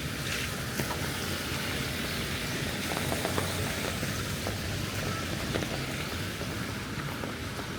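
Steady rain: an even hiss with scattered small ticks of drops.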